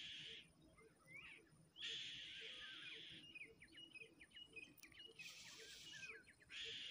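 Faint high bird chirps, short gliding notes, with a quick string of them about three to five seconds in. Between them come several short rushes of hiss-like noise, and there is a soft tick about twice a second underneath.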